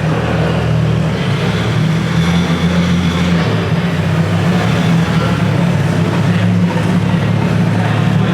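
Car engines running at low revs, a steady low drone.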